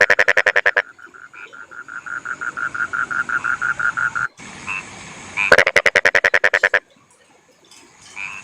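Rice-field frogs calling in fast pulsed trains: one frog gives a steady series of quick notes, and twice a louder frog breaks in with a rattling burst of about a second, at the start and about midway. The calling drops away briefly near the end.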